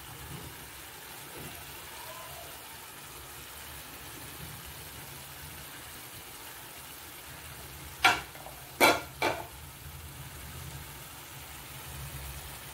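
Chicken pieces sizzling steadily as they shallow-fry in oil in a pan. About eight seconds in, three sharp knocks come within about a second, louder than the sizzle.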